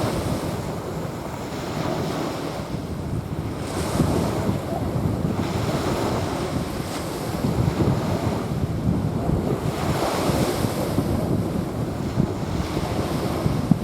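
Small waves breaking and washing onto a sandy beach, swelling in surges every few seconds, with wind rumbling on the microphone.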